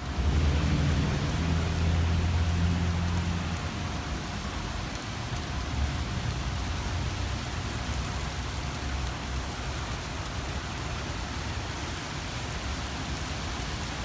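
Heavy rain falling steadily, a dense even patter. A low engine hum sits under it for the first few seconds and then fades out.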